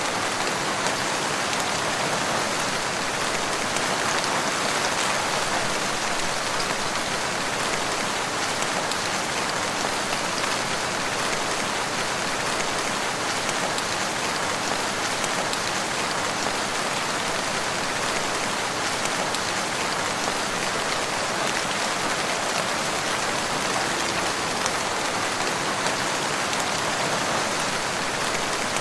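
Steady rain falling and pattering on surfaces, a dense even hiss with fine scattered drop ticks.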